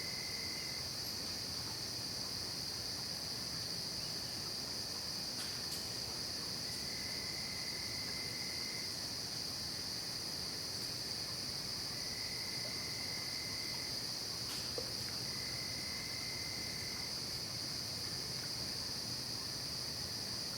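Night insect chorus of crickets: a continuous high-pitched trill, with a lower trill from another insect starting and stopping in spells of about two seconds, four times.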